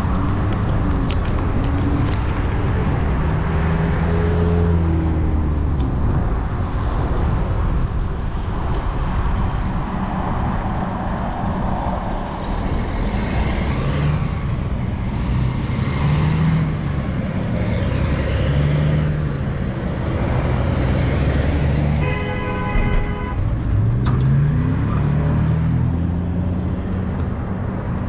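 Street traffic heard from a moving bicycle: motor vehicles pass one after another, their engine sound rising and falling over a steady rush of road and wind noise. About three-quarters of the way through comes a brief tone, about a second long.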